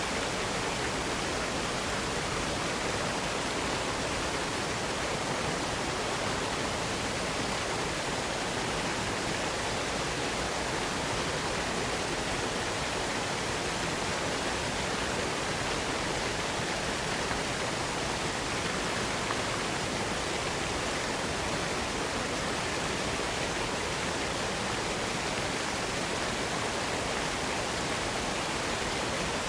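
Waterfall: a steady, even rush of falling water without a break or change.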